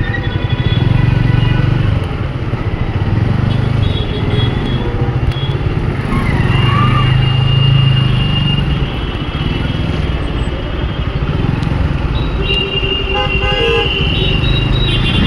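Motorcycle engine running steadily in city traffic, with vehicle horns honking twice: a couple of seconds of honking about six seconds in, and a longer blast near the end.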